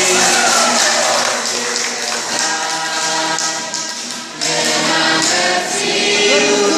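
A group of voices singing together in chorus, with a regular percussive beat.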